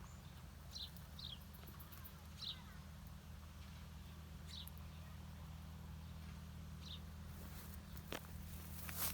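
A bird chirping: five short, falling chirps spread a second or two apart, over a steady low hum. A couple of sharp knocks come near the end.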